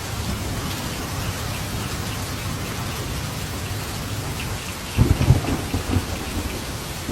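Steady rain falling through a thunderstorm, with a low rumble underneath; about five seconds in a sharp, crackling thunderclap breaks out and rumbles for a second or so before fading back into the rain.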